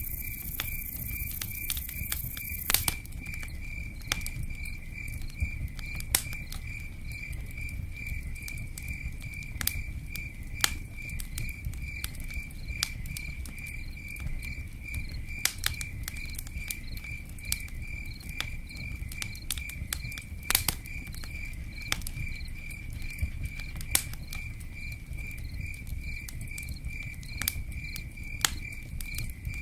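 Campfire crackling, with sharp pops every second or two over a steady low rumble, and a cricket chirping in a steady, fast, pulsing trill.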